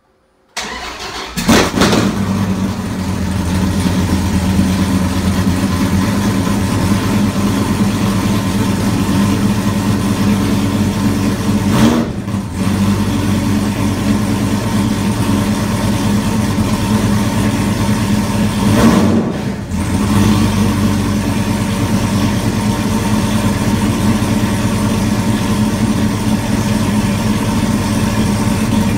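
2016 Dodge Viper ACR's 8.4-litre V10, its mufflers replaced by straight pipes, cranking and firing up with a loud flare about a second in, then idling steadily. It is revved briefly twice, near the middle and about two-thirds through.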